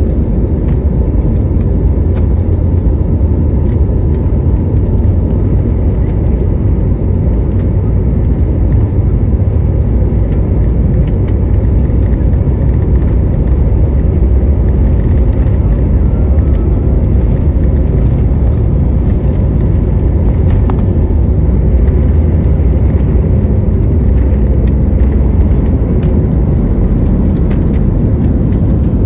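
Jet airliner's engines and airflow making a loud, steady low rumble, with a faint steady whine above it, during takeoff.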